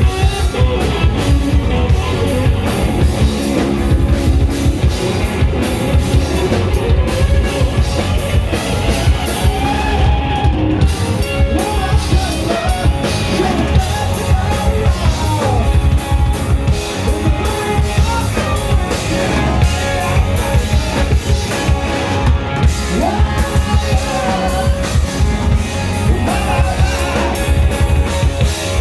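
Live rock band playing: a drum kit keeps up a dense steady beat under guitar, with a singer's voice over the top.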